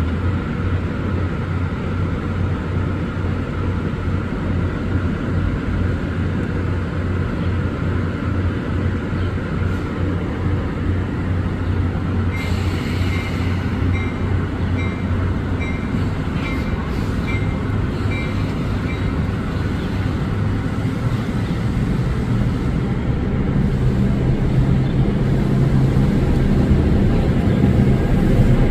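A passenger train at the station with a steady low rumble. In the middle comes a run of evenly spaced high dings, about two a second, and near the end a deeper engine sound swells and grows louder.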